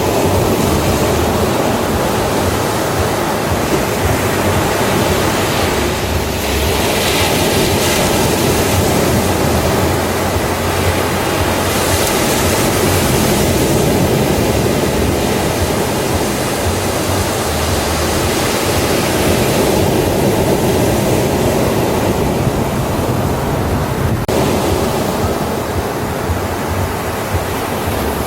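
Ocean surf on a beach: a steady wash of breaking waves, swelling louder every several seconds as a wave comes in.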